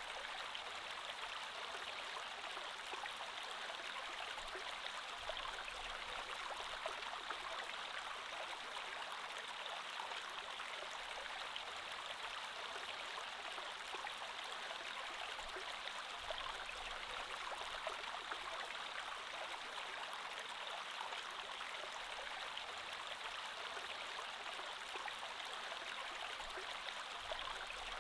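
Creek water flowing steadily over stones, an even rushing with small trickling and splashing detail.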